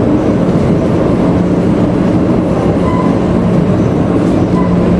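Tea-processing machinery running: a loud, steady mechanical rumble with a constant low hum.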